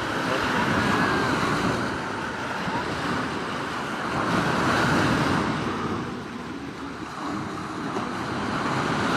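Sea waves breaking and washing on the shore in slow surges that swell and ebb about every four seconds.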